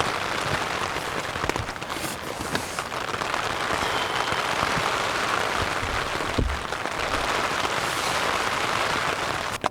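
Steady rain falling, a dense hiss of many small drop impacts that cuts off suddenly right at the end.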